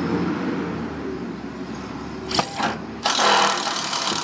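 A vehicle engine idling, fading away over the first couple of seconds. Then a power drill with a socket drives a stainless hex-head screw down through a wood bed board into the metal cross member beneath: a short whir about two seconds in, then a longer, louder run from about three seconds in.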